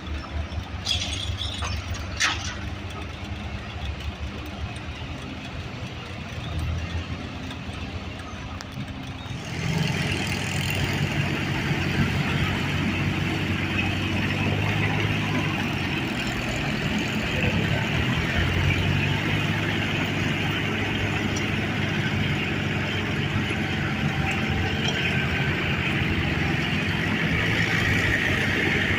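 An engine running steadily, which gets louder and harsher about nine seconds in and stays that way.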